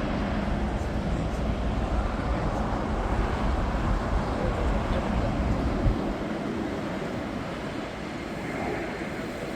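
Jet airliner engine noise: a steady roar with a deep rumble that eases off about six seconds in as the aircraft passes.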